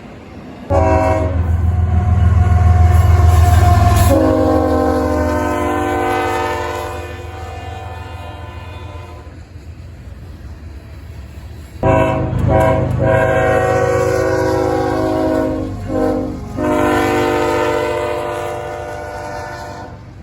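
Diesel locomotive horn sounding long chorded blasts over the deep rumble of a passing train. The horn's pitch drops about four seconds in as it goes by, and the sound fades. A second set of blasts starts suddenly about twelve seconds in, broken twice briefly, then fades out.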